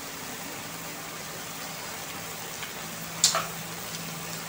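Bottle gourd and shrimp cooking in a wok with a steady sizzle and a faint low hum underneath. About three seconds in, a metal spatula clinks sharply against the wok once.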